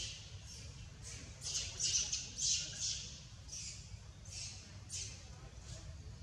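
Background birds giving about a dozen short, raspy, high chirps at irregular intervals, thickest and loudest around two seconds in, over a steady low rumble of wind on the microphone.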